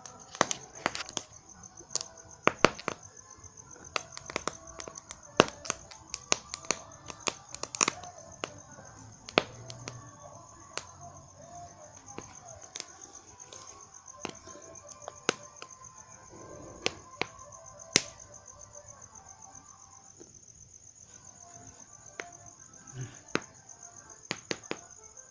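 Firecrackers going off in sharp, irregular bangs, thickest in the first several seconds and then more scattered. Under them, crickets keep up a steady high chirping.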